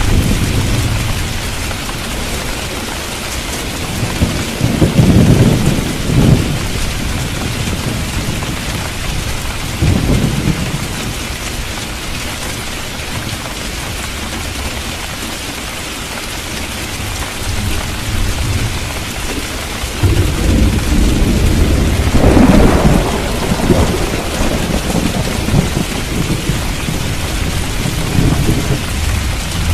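Thunderstorm: heavy rain hissing steadily, with low rolls of thunder rumbling about 5 seconds in, again at about 10 seconds, and a longer, louder roll from about 20 seconds.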